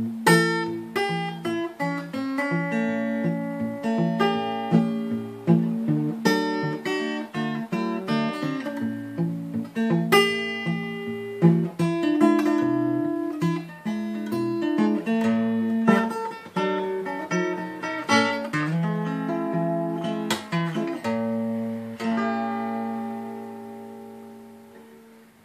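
Seagull Entourage Mini Jumbo Rustic acoustic guitar played fingerstyle: a short blues of picked notes over a bass line, ending on a chord left to ring out and fade. The guitar is tuned down a half step and strung with 12-gauge strings, for a beefier sound.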